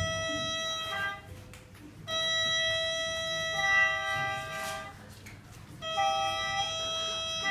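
Hulusi (Chinese gourd flute) playing long held notes in three phrases with short breaths between them, a second steady tone sounding alongside the melody note partway through the later phrases.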